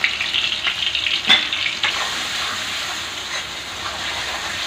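Onion and tomato masala with freshly added salt, turmeric and chili sizzling steadily in hot oil in a karahi, with a few sharp knocks of stirring in the pan.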